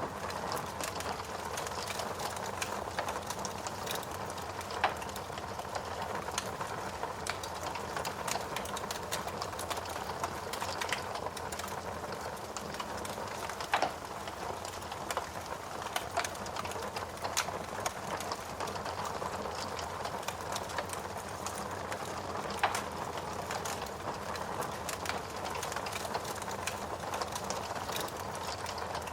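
Wood fire burning in a fireplace, crackling steadily with many small snaps and a few louder pops.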